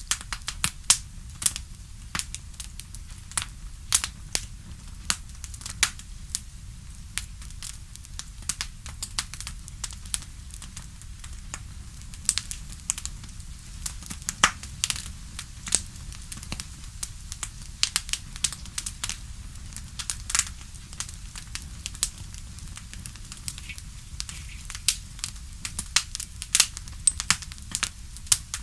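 Wood fire crackling: many sharp irregular pops and snaps, several a second, over a steady low rumble of flame.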